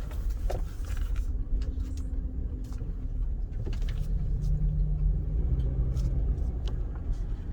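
A car's engine running with a low, steady rumble, heard from inside the cabin. A faint hum shifts slightly lower in pitch about five seconds in.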